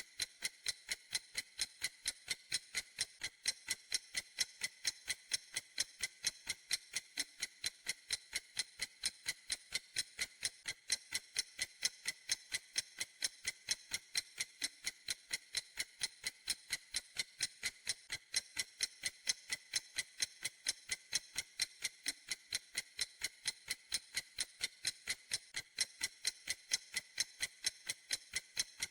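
Clock ticking in a steady, even rhythm of a little over two ticks a second. Each tick is a short, crisp, high click of the same loudness.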